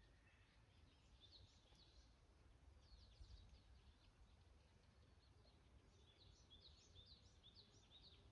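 Near silence with faint, distant bird chirps: short high calls about a second in, again around three seconds, and a busier run of them near the end.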